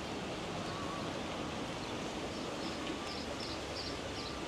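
Small birds chirping, a quick run of short, high chirps about three seconds in, over a steady outdoor rushing noise.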